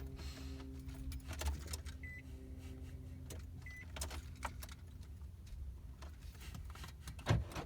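Car key jiggled in an ignition jammed by the steering wheel lock: keys jangling and clicking against each other and the column, over a steady low hum, with two short high beeps in the middle and a couple of heavier knocks near the end.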